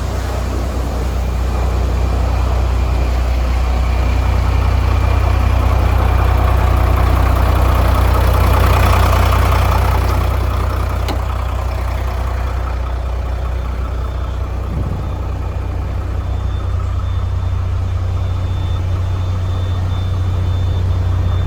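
Heavy diesel engine of an Iveco EuroTrakker tipper truck idling steadily. A broad rushing noise swells and fades in the middle.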